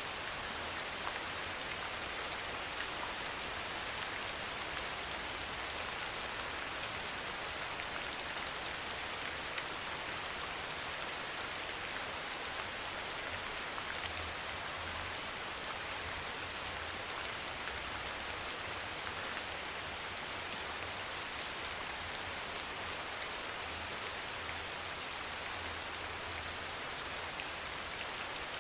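Steady soft rain falling on a surface: an even hiss with scattered faint drop ticks.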